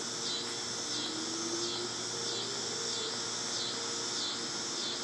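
Outdoor insect chorus of crickets or katydids, chirping in regular pulses at about one and a half per second. Faint steady low tones run beneath it.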